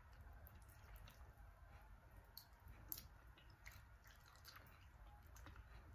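Faint mouth sounds of chewing and sucking at bony chicken feet in coconut sauce: small scattered wet clicks, one a little louder about three seconds in.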